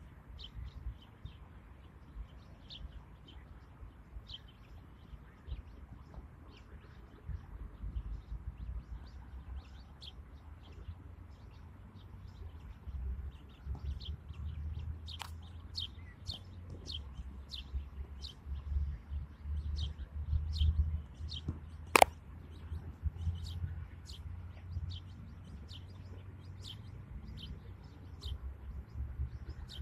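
Small birds chirping, short high notes about once or twice a second, over a low steady rumble. A single sharp click about two-thirds of the way through is the loudest sound.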